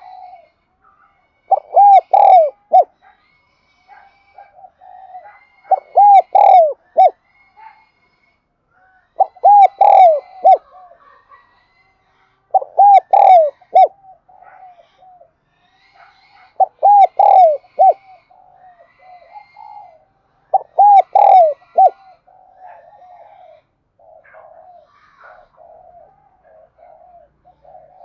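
Spotted dove (cu gáy) cooing, a lure bird calling to draw in wild doves: six loud phrases of several coo notes, about one every four seconds, followed by softer, quicker murmured notes near the end. Faint higher chirps sound between the phrases.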